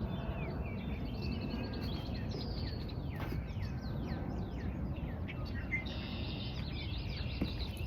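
Several small birds chirping and singing: a busy chorus of short, quickly falling notes, over a steady low background rumble.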